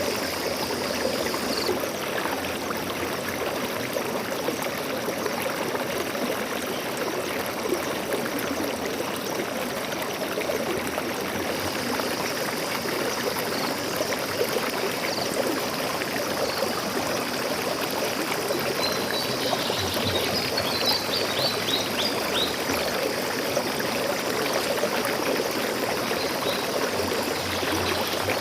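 Forest stream flowing and babbling steadily over stones. A small bird twitters in a quick run of high notes about two-thirds of the way through, and again briefly near the end.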